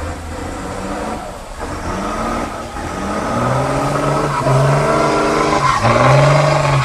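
Unimog's diesel engine revving hard under load in mud, its pitch climbing in steps and then held at high revs, with a brief dip about six seconds in before it climbs again.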